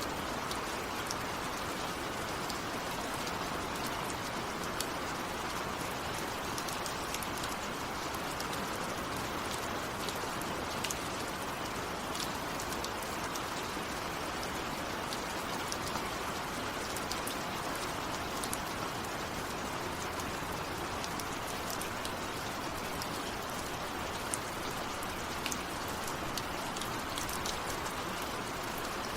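Steady heavy rain falling, an even hiss with many single drops ticking on a surface, without thunder.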